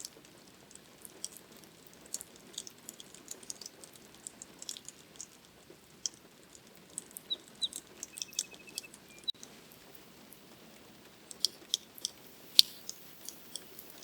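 Irregular ticks and taps of raindrops, one sharper tap about twelve and a half seconds in. A bird gives a short, quick series of high chirps about eight seconds in.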